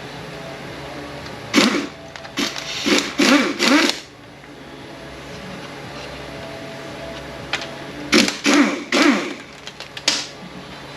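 Hand-held power tool, such as an air ratchet or impact gun, run in short bursts to loosen bolts on an automatic transmission case. There are two clusters of bursts, about four seconds apart, with the tool's pitch rising and falling in each.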